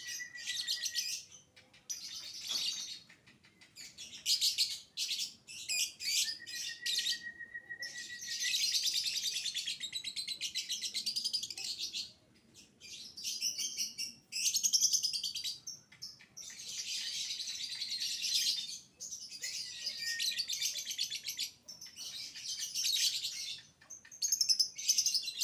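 Lovebird singing in long, rapid high-pitched chattering trills of one to three seconds each, separated by short pauses, with a brief steady whistled note near the start and another about seven seconds in.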